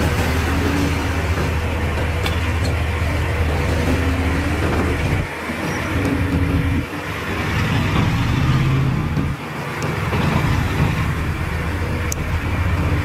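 Heavy diesel engine of an earthmoving machine running under load, its pitch rising and falling as it is revved. The level drops briefly a few times.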